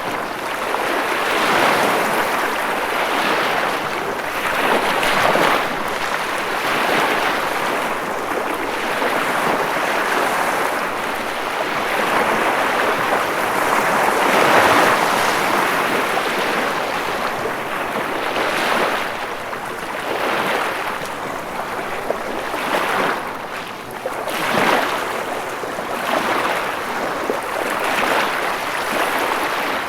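Ocean waves washing onto a shore, a steady rushing surf that swells and eases every second or two.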